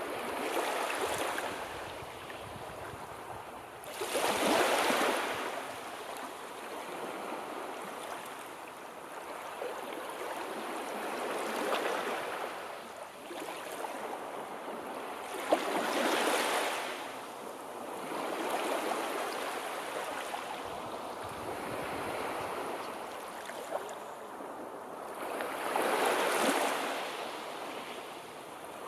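Sea waves washing onto the shore, a hiss of surf that swells and fades every few seconds. A single sharp click sounds about halfway through.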